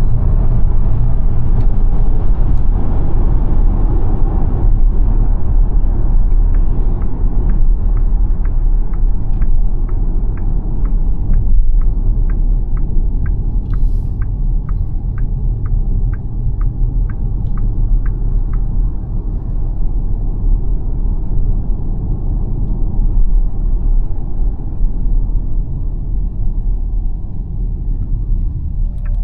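Cabin sound of an XPENG G9 electric SUV at speed just after hard acceleration: a steady road and wind rumble that slowly eases. The turn-signal indicator ticks about twice a second from about six seconds in, for some twelve seconds.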